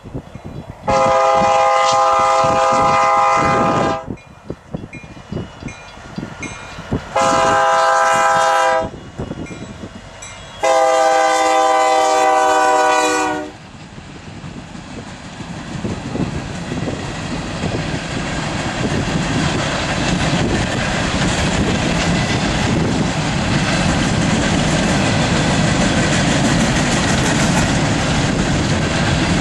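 BNSF diesel locomotive's multi-chime air horn sounding three blasts (long, short, long) as the train approaches a grade crossing. Then the empty coal train runs past, its rumble and wheel clatter steadily growing louder.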